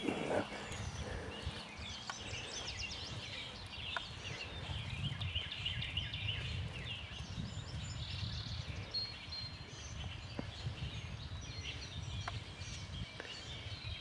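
Outdoor ambience with several birds chirping and calling in short notes, over a faint low rumble.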